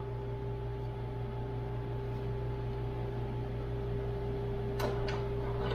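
Steady droning hum of a motor or electrical appliance, with two light clicks near the end as the steering box's cover plate is handled.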